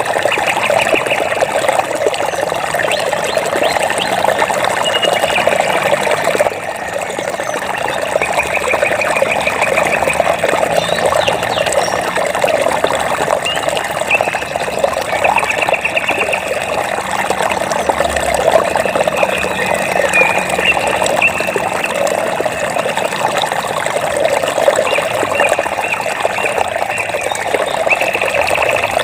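Flowing water trickling and splashing steadily, like a stream. A high, rapidly pulsed trill from a small animal recurs every few seconds behind it.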